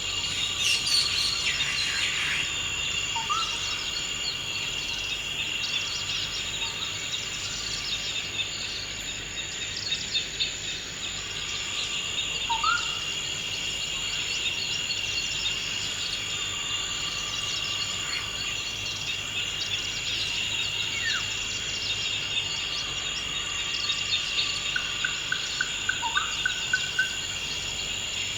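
A steady chorus of insects holds two even, high-pitched tones, with scattered bird calls over it: short whistled notes that slide up or down. Near the end a bird gives a quick run of repeated notes.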